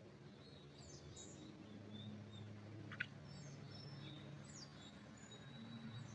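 Faint birdsong in a pine forest: scattered short chirps and whistles from several small birds, with one sharp click about three seconds in. A faint low steady hum runs underneath.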